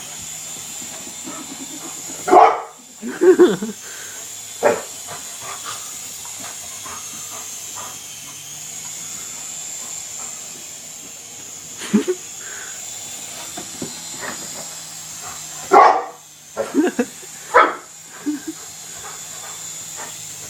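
Dog barking excitedly in short outbursts: a few barks a couple of seconds in, a single bark about halfway, and a quick run of barks near the end. A steady hiss with a low hum runs underneath.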